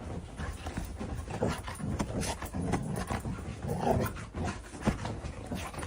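A dog making a string of short, irregular sounds.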